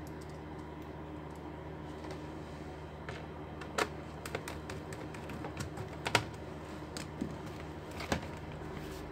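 Irregular sharp clicks, like keys being pressed on an Acer Nitro laptop, starting a few seconds in and ending shortly before the end, over a steady low hum.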